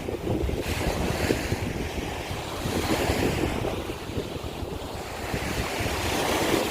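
Sea waves washing up over a shore of broken scallop shells, a continuous wash of surf that swells and eases.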